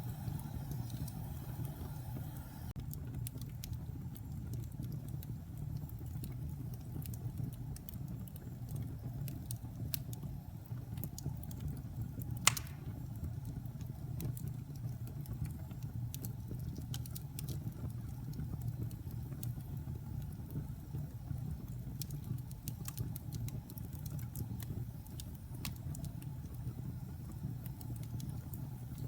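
Fire burning in a fireplace: a steady low rumble with scattered crackles and one sharper pop about twelve seconds in.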